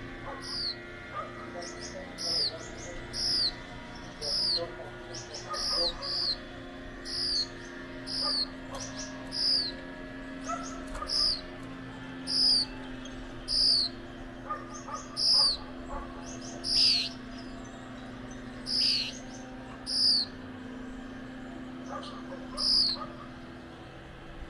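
Gouldian finch giving short, high-pitched calls that sweep downward, repeated about once a second, over a steady low hum.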